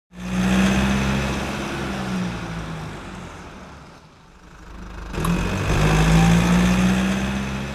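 A car engine running with a low, steady hum. It is loud at first and fades over about four seconds, then swells again about five seconds in and eases off near the end.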